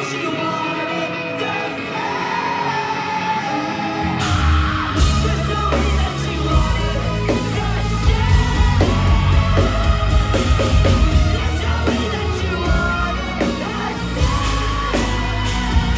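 Live post-hardcore band playing loud, with sung and yelled vocals over guitars; the full band with heavy bass and drums crashes in about four seconds in after a thinner guitar-and-voice passage.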